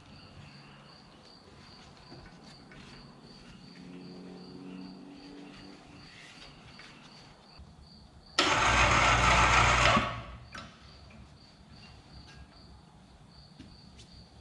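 Insects chirping in a steady high pulse, a few beats a second, broken about eight seconds in by a loud rough burst of noise lasting about a second and a half that starts abruptly.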